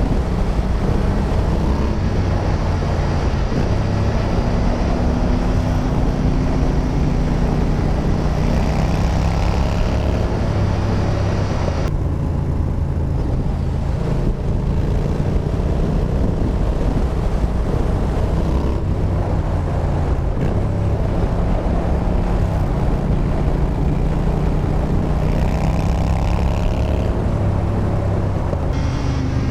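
Yamaha Bolt's air-cooled V-twin running through a Bassani Radial Sweepers exhaust while riding, its note stepping up and down in pitch as the throttle and gears change through the bends. A rush of wind noise runs underneath and eases for a few seconds about twelve seconds in.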